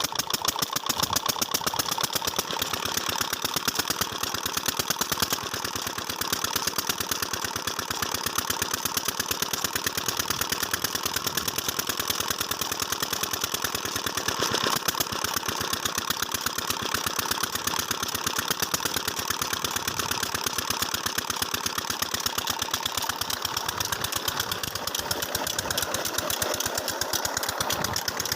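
Diesel engine of a tubewell running steadily, with a rapid, even chugging of exhaust beats.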